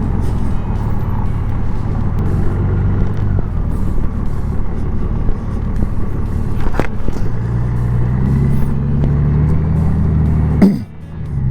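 Honda Gold Wing's flat-six engine running under way, mixed with wind and road noise. From about seven seconds in, the engine note climbs and grows stronger as the bike pulls harder, then drops out briefly just before the end.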